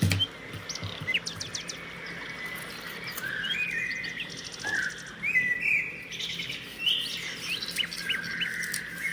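Birds chirping and whistling, many short calls overlapping throughout, with a knock right at the start and a few light clicks in the first couple of seconds.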